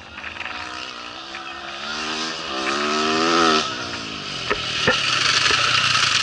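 Rally motorcycle engine approaching at speed, its pitch and loudness climbing to a peak about three and a half seconds in. It then passes in a loud rush of noise, with a few sharp clicks.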